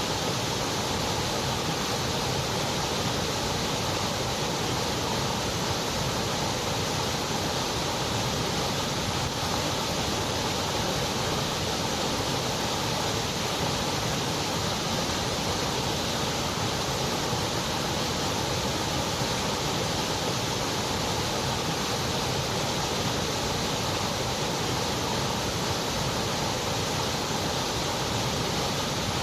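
Steady synthetic white noise: an even, unbroken hiss with no changes in level.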